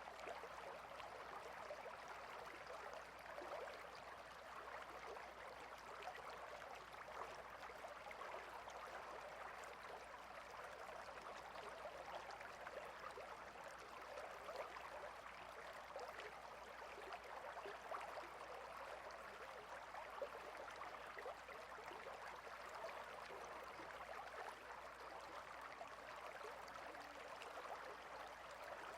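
A water stream flowing steadily, a faint, even babble of running water.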